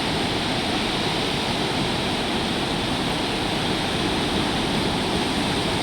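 Sea surf rushing in a steady, even roar, with no single waves standing out.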